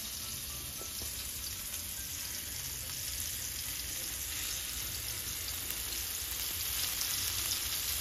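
Flour-dusted raw meatballs sizzling in shallow olive oil in a stainless skillet as more are set into the pan by hand: a steady frying hiss that grows a little louder toward the end.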